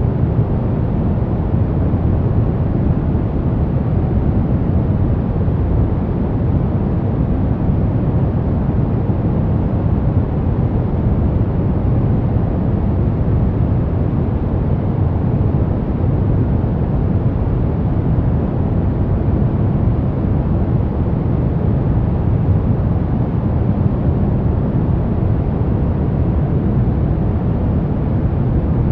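Steady, unbroken synthetic noise from a white-noise sleep track, deep rather than hissy, with most of its weight in the low end.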